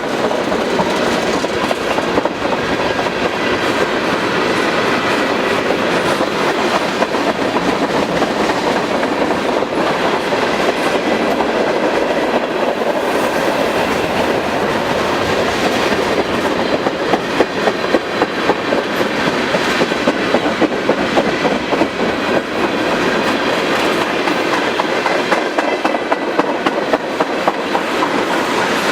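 Freight cars of a long manifest train rolling steadily past on steel wheels, clickety-clacking over the rail joints, with a sharper clatter for a few seconds near the middle.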